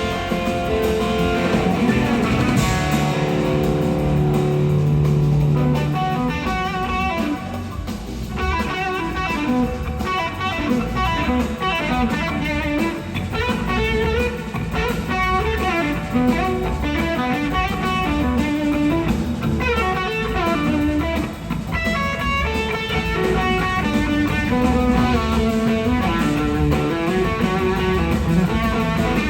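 Electric slide guitar playing a live blues-rock solo over the band's bass and drums: quick runs of notes with sliding, gliding pitches.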